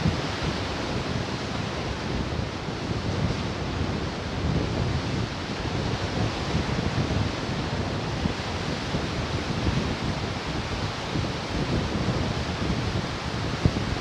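Ocean surf washing steadily onto the shore, with wind noise on the microphone.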